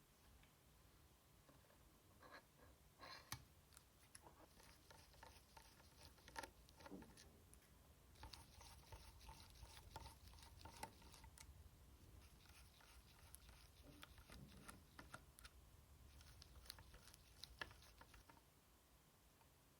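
Faint hand-handling sounds from removing and cleaning a PS4 Slim hard drive: scattered small clicks and taps with stretches of scratchy rubbing.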